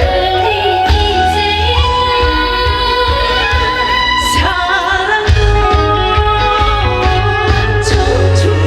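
A woman singing a Korean pop song over loud band accompaniment with a steady, heavy bass beat; she holds one long note in the middle.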